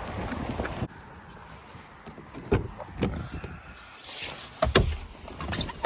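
Wind buffeting the microphone for about the first second, then the quieter inside of a car with several knocks and thumps, the loudest a little after the middle.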